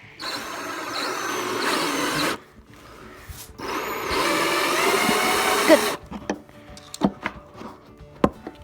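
Power drill running in two bursts of about two seconds each, driving screws, followed by a few light knocks and clicks.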